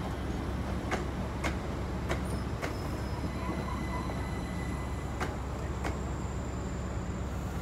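Great Northern electric multiple unit rolling slowly past. A steady low rumble is broken by sharp clicks as its wheels pass over rail joints and pointwork.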